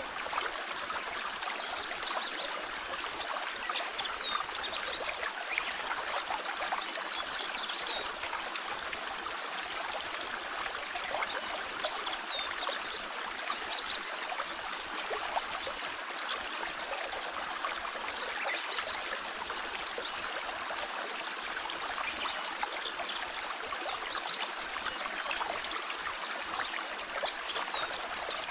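Clear mountain stream flowing, a steady even rush of water.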